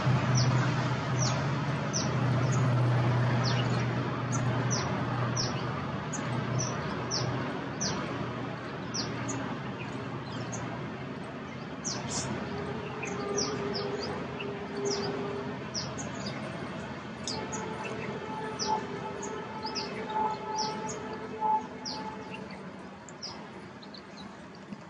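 Small birds chirping: short, high chirps that slide downward, about two a second, over steady outdoor background noise. A low hum sits under them for the first several seconds, then fades.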